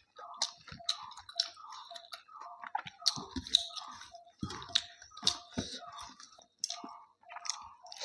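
A person chewing food close to the microphone, with short wet mouth smacks at about two a second.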